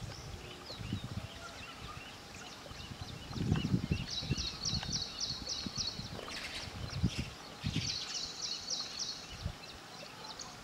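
A bird calling in two runs of rapid, evenly repeated high chirps, about four to five a second, over low, irregular rumbling.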